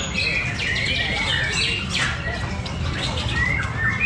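Several caged songbirds singing at once, with a dense run of overlapping chirps, trills and warbling phrases, over a steady low background rumble.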